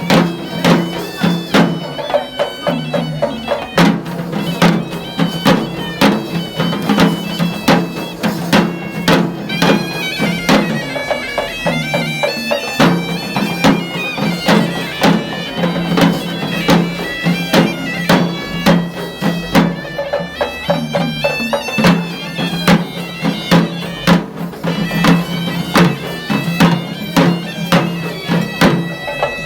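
Traditional Sri Lankan procession music: a nasal reed pipe, likely a horanewa, plays a winding melody over a steady low drone, with rapid drum strokes throughout.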